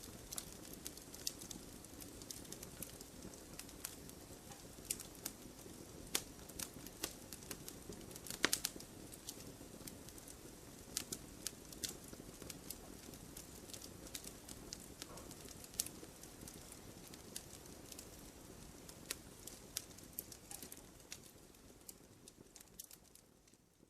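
Wood fire in a fireplace crackling: a steady low rush of flame with frequent sharp pops and snaps, the loudest pop about eight and a half seconds in. It fades down near the end.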